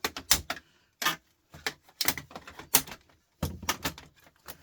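Small plastic and metal parts being handled and worked at by hand to pry one open: a string of sharp, irregular clicks and knocks.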